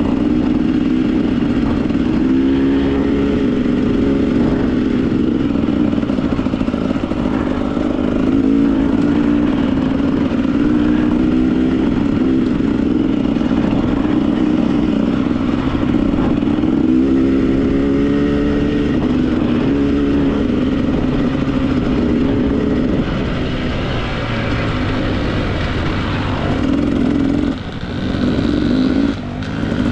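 Husqvarna TE 300 two-stroke single-cylinder dirt bike engine running hard over rough single track, its pitch rising and falling with the throttle, with clatter from the bike. Near the end the throttle is chopped twice briefly.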